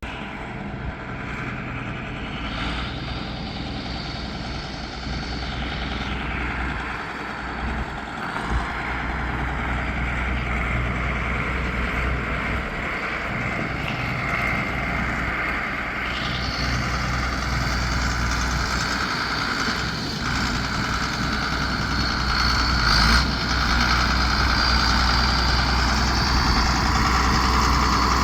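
A motor vehicle on the move: steady engine and road noise with a deep rumble, gradually growing louder.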